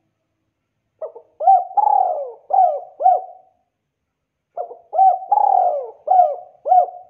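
Spotted dove cooing: two phrases of several short hooked notes each, the first starting about a second in and the second after a pause of about a second.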